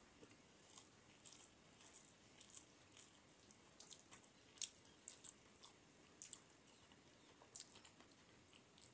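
Close-miked mouth sounds of a man chewing a mouthful of rice and fish curry, with short irregular wet clicks and smacks several times a second. Faint squelching of fingers mixing rice into the curry gravy on the plate.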